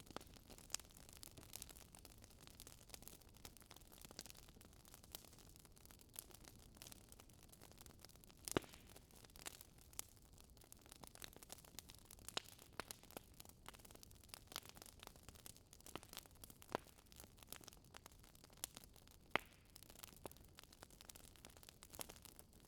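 Fire crackling in a fireplace: faint, irregular pops and snaps over a soft hiss, with two sharper pops about a third of the way in and again near the end.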